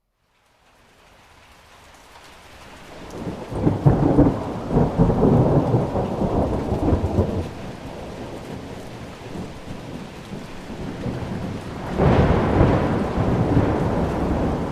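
Thunderstorm: steady rain fades in from a brief silence, then two long rolls of thunder, the first building about three seconds in and rumbling for several seconds, the second breaking in sharply near the end.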